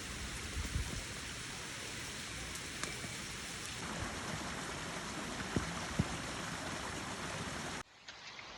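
Steady rain falling: an even hiss with scattered raindrop ticks and a few low thumps. Near the end it cuts abruptly to quieter rain.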